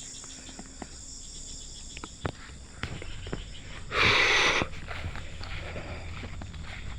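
Night insects, crickets among them, chirring steadily, with scattered small clicks and a brief loud rustle about four seconds in.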